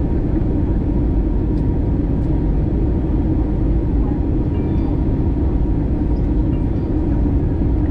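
Steady low rumble of an Airbus A321's IAE V2533-A5 engines and airflow, heard from inside the passenger cabin.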